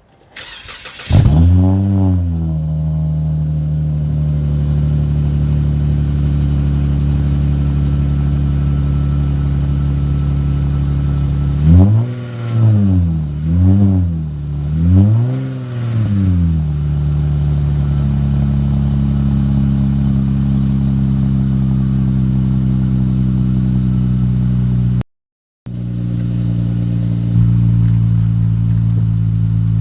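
A 2019 Dodge Challenger SXT's 3.6-litre V6 is cold-started at −3 °C. It fires about a second in with a rev flare, then settles into a steady fast cold idle. Around the middle it is revved three times, each rev rising and falling, and then it idles on at a slightly lower pitch. The sound drops out for about half a second near the end, and another rev begins right at the close.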